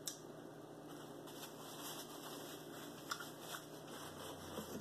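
A person chewing a mouthful of food: faint mouth sounds with a few soft clicks, one just after the start and a couple about three seconds in.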